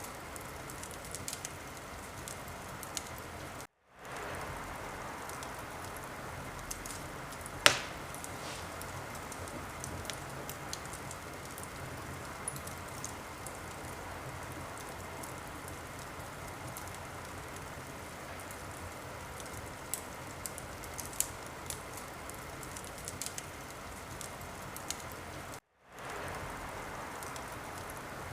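Wood fire crackling: a steady hiss sprinkled with small pops and snaps, with one sharp, louder pop about a quarter of the way in. The sound cuts out for a moment twice.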